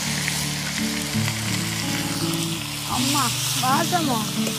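Squid sizzling steadily as it fries in hot oil with onion and chilli, over background music with low stepped notes.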